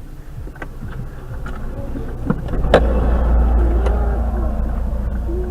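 Car on the move: a steady low engine and road rumble that swells and grows louder about halfway through, with a few sharp clicks.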